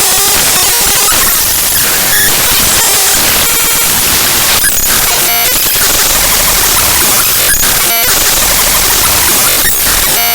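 Raw binary data of the ffmpeg.exe program file played back as audio: a loud, harsh, static-like wall of noise, broken every second or so by brief buzzy, patterned patches.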